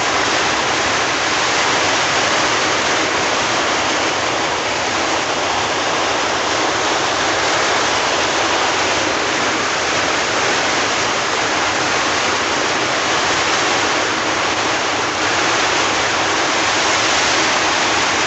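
Heavy rain pouring down steadily and loudly.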